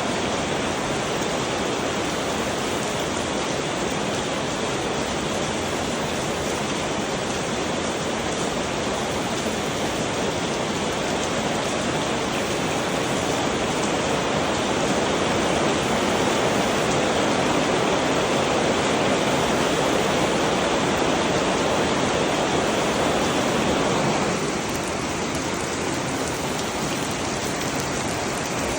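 Heavy rain falling steadily, a dense even hiss. It grows a little louder past the middle and eases abruptly near the end.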